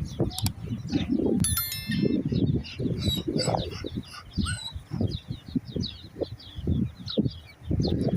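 Many small birds chirping continuously, with a short clear call about a second and a half in. Irregular louder low-pitched noises, several a second, run underneath.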